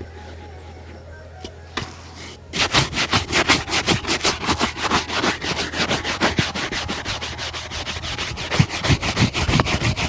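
A shoe being buffed with rapid back-and-forth strokes, about five or six a second, starting about two and a half seconds in. Before that there is a low hum and a couple of single clicks.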